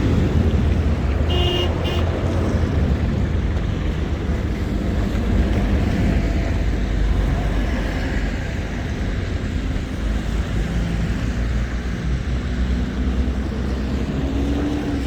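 City street traffic: vehicles passing over a steady low rumble, with a brief high beep about a second and a half in.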